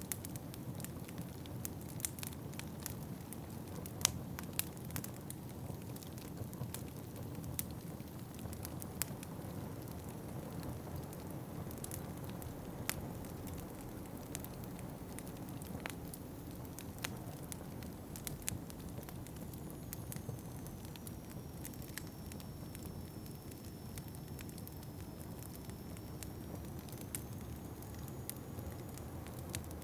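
Wood fire crackling in a fireplace, with irregular sharp pops and snaps, the loudest about four seconds in, over a steady low rumble.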